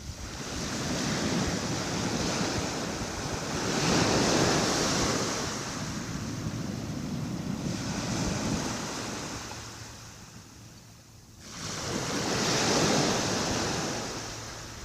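Calm sea: gentle waves washing onto the shore in slow surges that rise and fade, with a brief lull before the last wave comes in.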